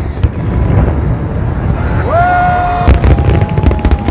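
Fireworks show: dense, continuous booming of aerial shells, with sharp crackles scattered through. About halfway through, a whistle-like tone rises and holds for about a second, followed by a slightly higher steady tone near the end.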